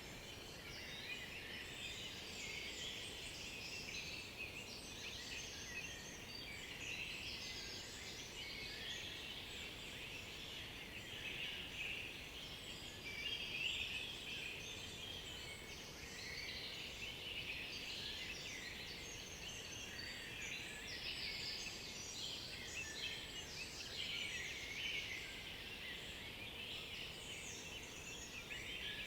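A chorus of songbirds, many overlapping high songs and calls going on continuously, with no single bird standing out for long.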